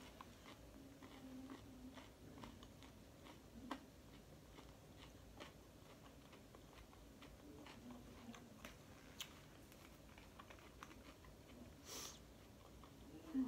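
Faint close-up chewing of lettuce salad with pieces of chicken nugget: soft crunches and small wet mouth clicks, with a short rustling noise near the end.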